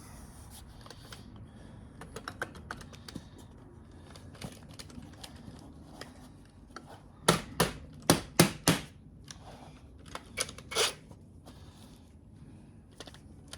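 Hand tools clicking and clinking on metal as the bolt holding an engine's power steering pump is worked loose. A run of five or six sharp clicks comes about halfway through, and two more follow a couple of seconds later.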